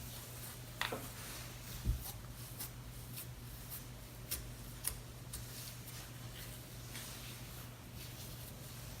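Cloud slime being handled and stretched: a scatter of faint, short clicks and crackles, about one every half second to second, over a steady low hum.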